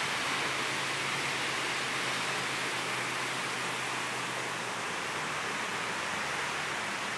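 Very heavy tropical downpour: a steady, unbroken rush of rain.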